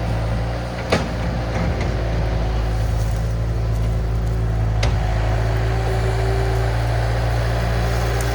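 Diesel engine of a compact earthmoving machine running steadily under work. There is a sharp knock about a second in and another near five seconds.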